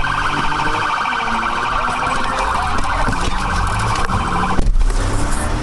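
Police siren sounding in a rapid, fast-pulsing warble over low vehicle rumble. It cuts off about four and a half seconds in, and a louder low rumble follows.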